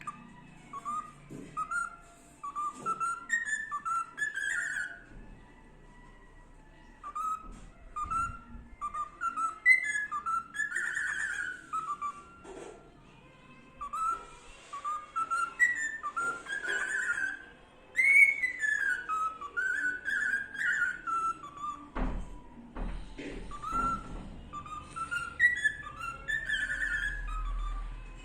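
Cockatiel whistling a tune: repeated phrases of short notes stepping up in pitch, each ending in a louder note that rises and falls, with brief pauses between phrases.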